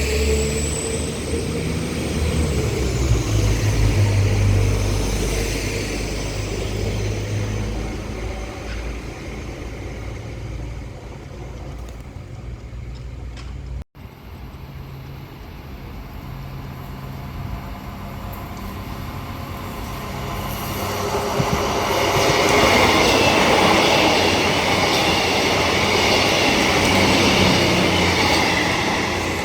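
A train's loud low rumble fading away. After a brief dropout about halfway through, another train comes in, its noise building with a high squeal from the wheels.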